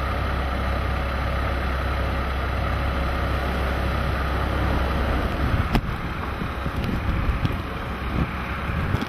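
Car engine running with a steady low hum that breaks up about five seconds in, followed by a few scattered knocks, one sharp knock about six seconds in.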